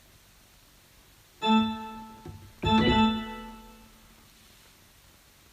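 Two organ-like notes played on a keyboard, about a second apart, each struck and then fading out.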